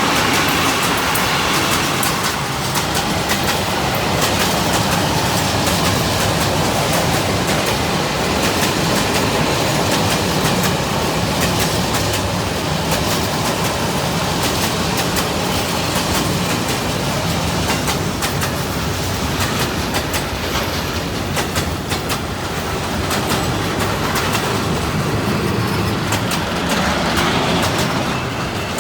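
Electric train passing close by, its wheels clattering over the rail joints in a steady run of clicks over a continuous rumble of running gear.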